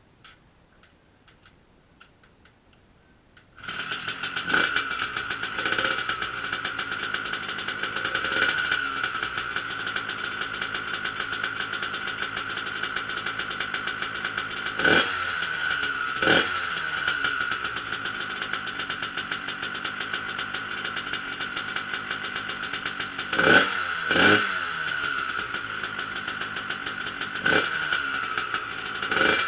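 1999 Honda CR125's two-stroke single-cylinder engine fitted with an FMF Power 2 Shorty silencer, catching about three and a half seconds in and then idling with a steady note. Short, sharp throttle blips come every few seconds, two close together near the end.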